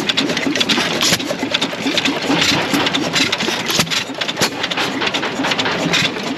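An engine running steadily with a fast, even clatter.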